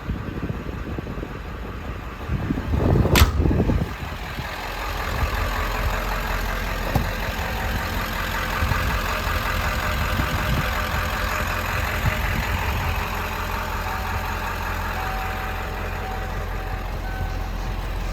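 7.3-litre Power Stroke turbo diesel in a 1995 Ford E350 ambulance idling steadily, with one sharp knock about three seconds in.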